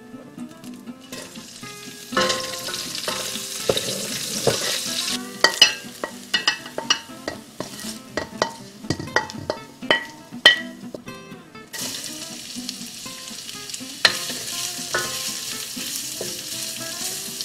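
Vegetables sizzling in hot oil in a stainless steel wok, the sizzle jumping up about two seconds in as food goes into the pan, with repeated sharp clinks and scrapes of utensils against the metal as they are stirred.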